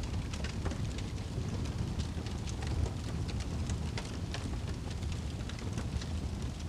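Wood fire burning in a fireplace: a steady low rumble of the flames with frequent sharp crackles and pops from the logs, scattered irregularly.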